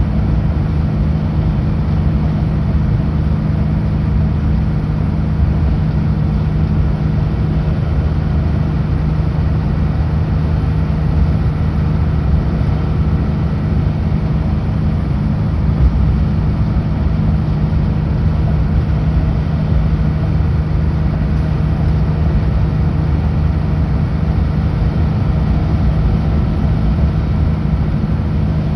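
Kenworth W900L semi truck's diesel engine droning steadily at highway cruising speed, with a constant low rumble of road noise and no change in engine pitch.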